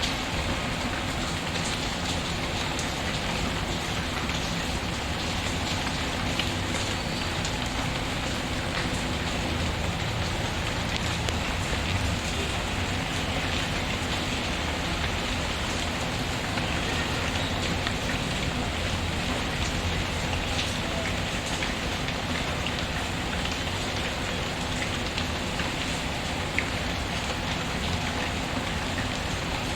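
Steady, even rain with a few scattered sharp crackles from a wood fire in a fireplace.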